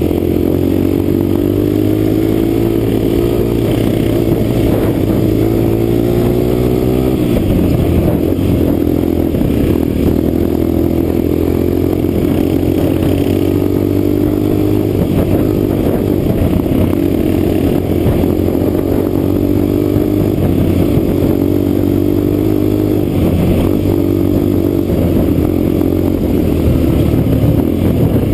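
Yamaha XTZ dual-sport motorcycle engine running under way, heard from a helmet-mounted camera. The revs climb slowly, drop sharply about seven seconds in, then rise and fall with the throttle.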